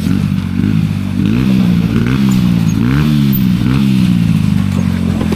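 Enduro dirt bike engine running, revved up and down in a series of throttle blips through the middle.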